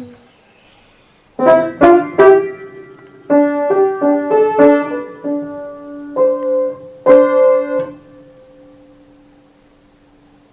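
Piano keys pressed by a budgerigar stepping on them: an uneven string of single notes and clashing chords, starting about a second and a half in, the last chord left ringing and fading out.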